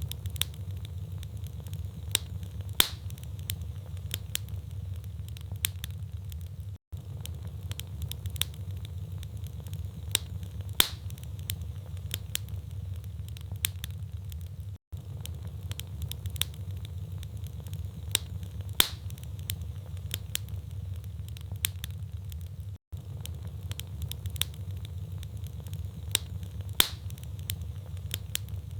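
Wood fire burning in a fireplace: a steady low rumble of flames with frequent small crackles of the logs and a louder sharp pop about every eight seconds.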